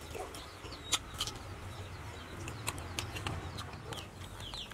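Small birds chirping on and off, with a few sharp mouth clicks from chewing.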